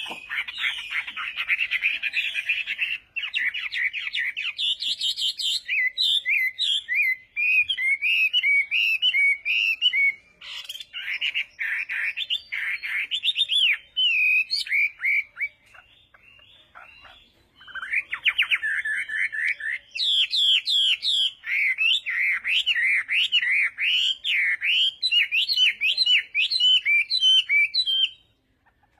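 Small birds chirping and twittering in fast, repeated pitch-swooping notes, with a brief lull about halfway through, stopping abruptly near the end.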